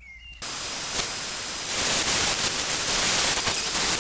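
A loud, steady hissing noise that starts suddenly and grows louder partway through.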